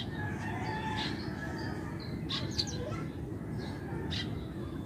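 Birds chirping now and then over a steady low background hum.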